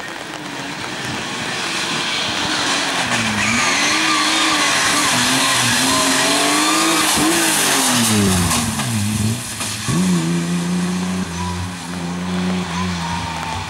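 BMW M3 rally car at speed, its engine revving up and down repeatedly through gear changes and lifts, over heavy road and tyre noise. About nine seconds in, the revs drop sharply, then pick up and hold fairly steady.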